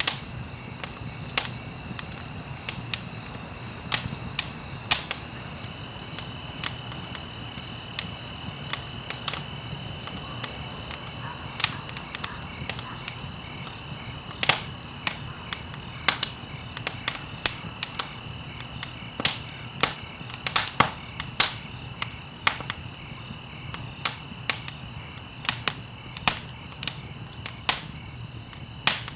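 Wood fire crackling, with irregular sharp snaps and pops, some loud, over a steady low rumble of burning. A faint steady high-pitched whine or chirr runs underneath.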